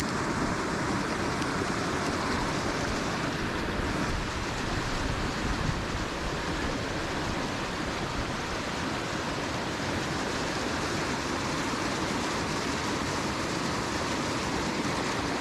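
Steady rushing of flowing creek water, with wind noise on the microphone.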